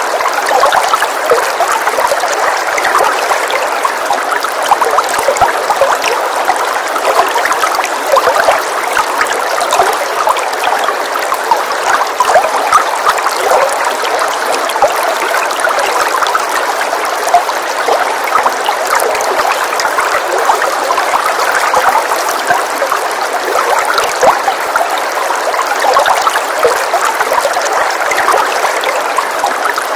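Recorded rain falling steadily, a dense even patter of drops without a break.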